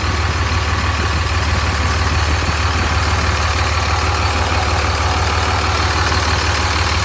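Dodge 5.9L Cummins inline-six turbodiesel idling steadily, still warming up after a cold start.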